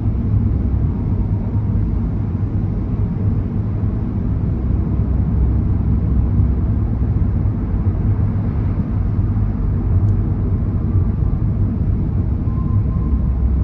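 Steady low road and engine rumble of a car driving.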